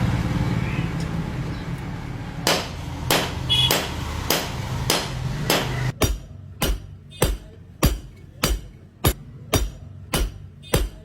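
Hand hammer forging a hot khukuri blade on an anvil, metal-on-metal blows at a steady rhythm of about one and a half a second. The blows begin a couple of seconds in over a steady low hum, which cuts off abruptly about halfway through.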